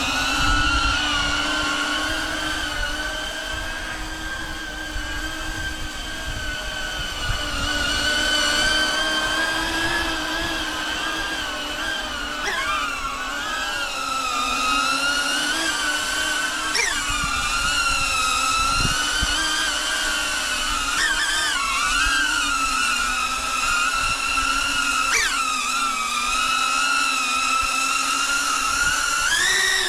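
Airscaphe X4 Pro caged quadcopter drone's electric motors and propellers whining steadily in flight, the pitch jumping up and settling back several times as the throttle is blipped. Low rumbling from the wind on the microphone runs underneath.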